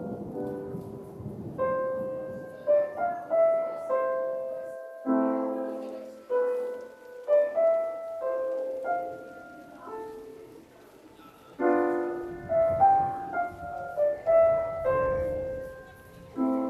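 Piano playing a slow, gentle melody of single notes and chords, the instrumental intro of a song, with a faint low rumble underneath at the start and again about two-thirds of the way through.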